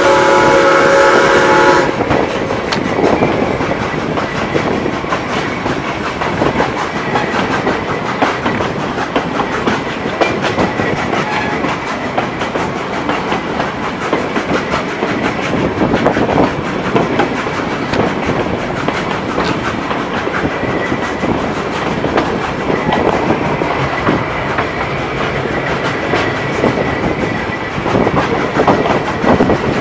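A narrow-gauge train's locomotive whistle sounds a chord of several notes and cuts off about two seconds in. Then the train runs on with steady wheel noise and quick clicks over the rail joints.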